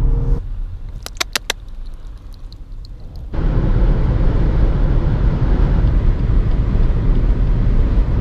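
BMW X1 xDrive25d's four-cylinder diesel car under way: a quick run of four clicks, then about three seconds in a loud, steady rush of engine, tyre and wind noise starts suddenly.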